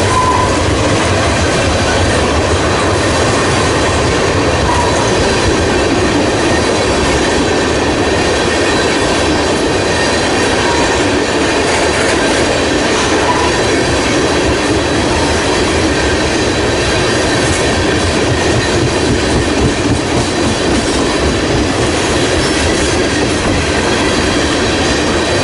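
Freight cars of a CSX manifest train rolling past close by: a steady rumble of steel wheels on the rail, with a few brief wheel squeals.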